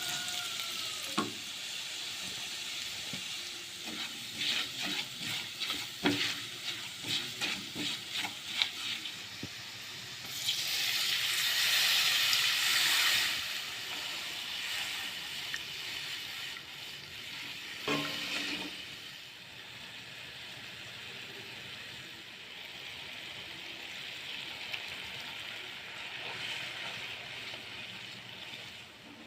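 Chicken sizzling in a frying pan while a spatula stirs it, with a run of scraping strokes between about four and nine seconds and a few sharp knocks against the pan. The sizzle surges louder for about three seconds near the middle, then settles to a gentler hiss.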